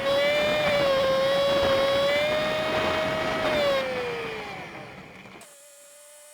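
Honda Super Cub 50's small single-cylinder engine running, played back sped up so it sounds as a high, steady whine. About four seconds in the pitch falls as the bike slows, then a sudden cut leaves a much quieter steady engine tone, the bike idling at a stop.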